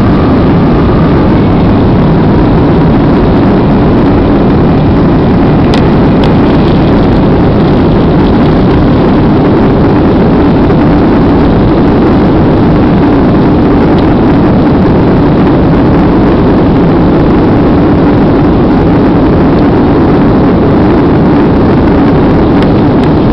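Loud, steady engine and airflow noise inside a passenger aircraft's cabin after takeoff, with a few faint clicks about six seconds in.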